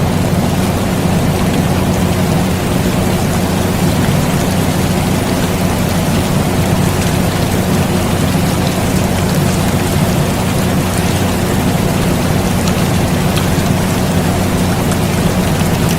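Steady rain hiss and pattering mixed with the continuous low hum of an air conditioner, unchanging throughout.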